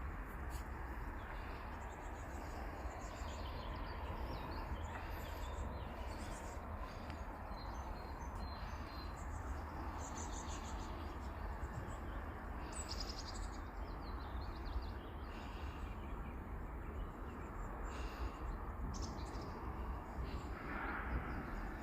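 Small songbirds chirping and calling on and off, short high notes scattered throughout, over a steady low background rush.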